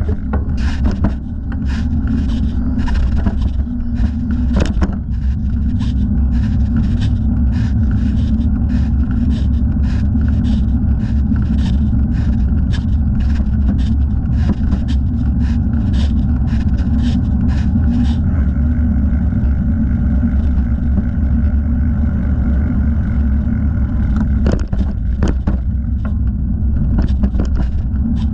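Wind rumbling on the microphone of a thigh-mounted camera during a bicycle ride, with a light scraping tick about twice a second that stops for several seconds past the middle and then starts again.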